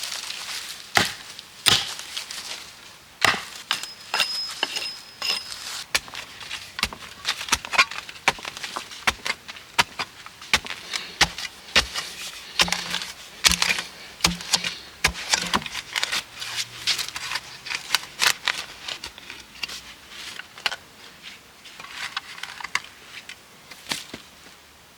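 Wood cracking and snapping: many sharp, irregular cracks with uneven gaps between them.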